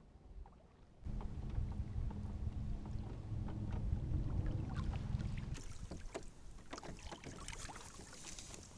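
Sounds of moving about in a kayak on the water: a low rumble starts about a second in and stops about five seconds in, giving way to a hiss with scattered small knocks and splashes.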